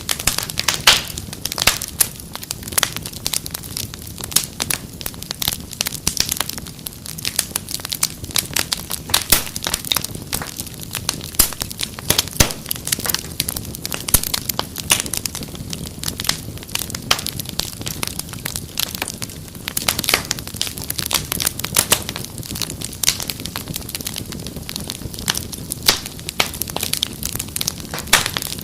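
Wood fire crackling, with dense irregular sharp pops over a low steady rumble of the flames.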